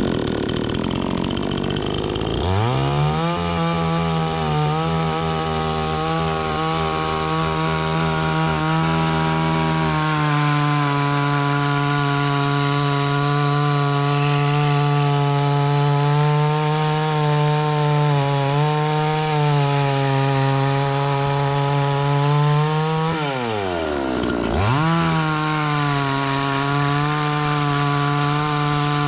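Two-stroke petrol chainsaw engine comes up to speed about two seconds in and runs at a steady high pitch. Near the end its revs drop sharply for about a second, then climb back.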